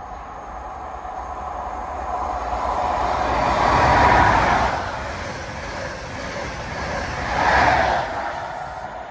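ScotRail High Speed Train with Class 43 diesel power cars passing at speed. The engine and wheel noise builds to a loud peak about four seconds in, eases, then swells again near the end as the train rushes past.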